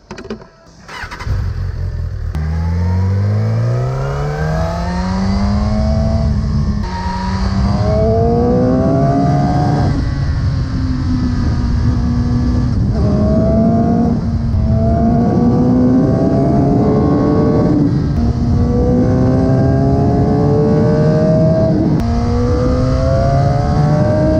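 Suzuki GSX-R1000 K7's inline-four engine through its original factory exhaust, pulling hard up through the gears: the pitch climbs steadily, then drops suddenly at each upshift, five or six times, with the engine note starting about a second in.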